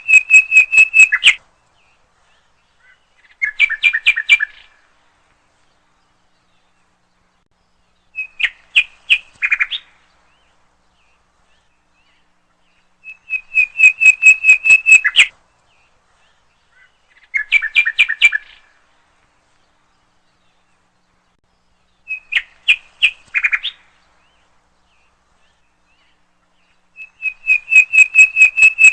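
A songbird singing short, rapid trilled phrases of quick repeated notes, seven phrases with pauses of a few seconds between them, against a quiet background.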